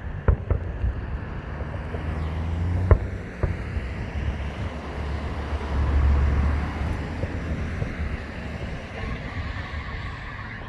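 A few sharp, distant fireworks bangs over steady road traffic noise, with a vehicle passing with a low rumble about halfway through.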